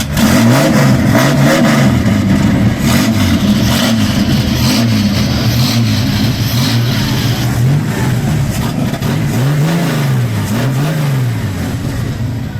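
A car engine being revved in repeated throttle blips, the revs climbing and dropping back again and again.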